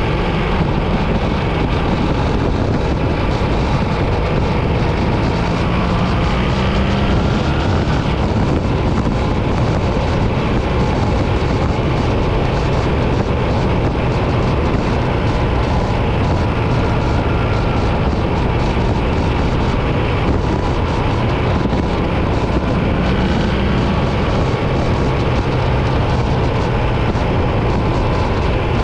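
Motorcycle engine running at a steady cruise with wind rushing past, the engine note rising slowly a couple of times.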